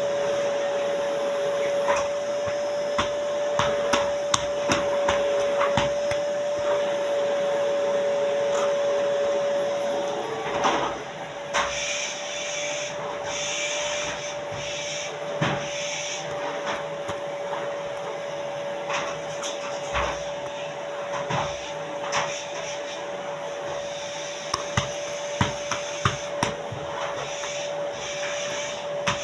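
A neighbour's vacuum cleaner running steadily with a constant hum, heard through from next door. Scattered sharp clicks and knocks sound over it.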